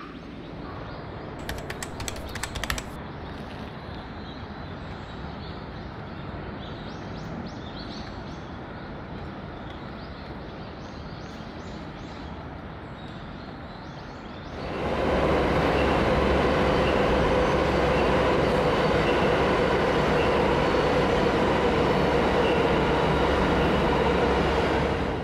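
Electric commuter train running past on the JR line, a steady rumble with a held whine. It comes in suddenly about three-fifths of the way through and stays loud until near the end. Before that there is quieter outdoor ambience with a brief clatter of clicks near the start.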